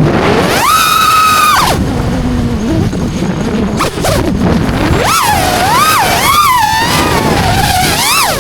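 FPV freestyle quadcopter's brushless motors and propellers whining, the pitch rising and falling with the throttle. It holds a high whine early on, drops to a rush of noise with wind on the microphone in the middle, then swings up and down quickly near the end.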